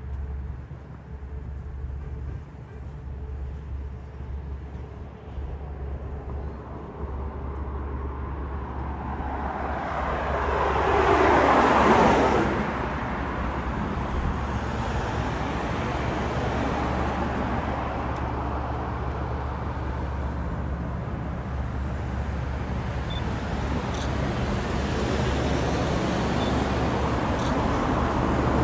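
Jet airliner on final approach passing close by: its noise builds to a peak about twelve seconds in, then falls in pitch as it goes past, leaving a steady roar that slowly grows again near the end.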